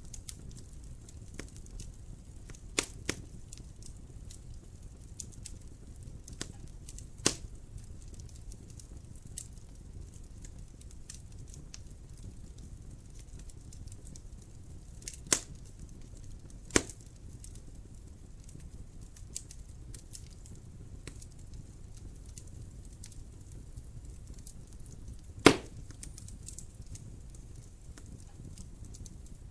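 Wood fire in a fireplace crackling over a steady low rumble, with scattered small snaps and a few loud sharp pops, the loudest about 25 seconds in.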